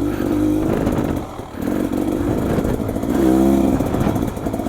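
Beta XTrainer 300 single-cylinder two-stroke dirt bike engine under throttle on a trail. It eases off and dips briefly about a second and a half in, then revs up again with a rise in pitch about three seconds in.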